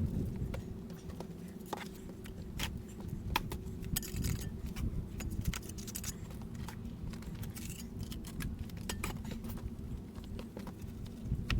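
Scattered sharp clicks and knocks, irregular and several a second at times, over a steady low hum.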